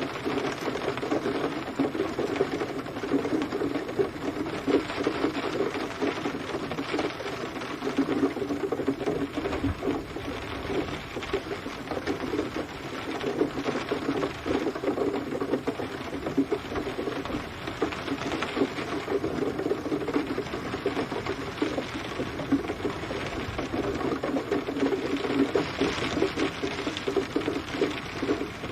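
Steady rain pattering on a surface, a dense, fast, irregular drumming of drops that swells and eases slightly in strength.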